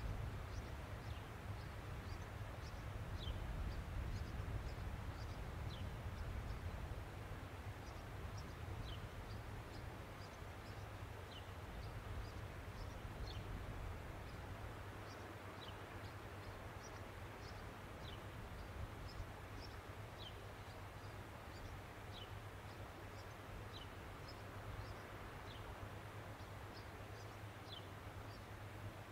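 Small birds giving short, high chirps that fall in pitch, one every second or two, over a steady low hum and hiss.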